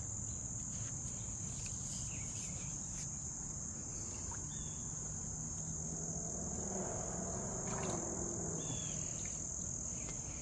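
Steady, unbroken high-pitched insect chorus, with a few faint clicks and short chirps over it.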